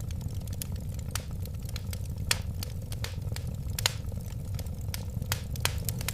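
Wood fire crackling, with sharp irregular pops several times a second over a steady low rumble of burning.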